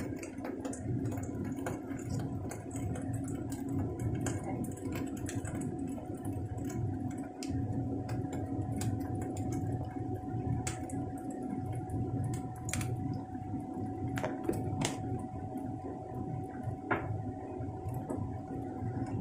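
Cauliflower and carrots sizzling in an oiled frying pan, with scattered pops and crackles over a steady low hum.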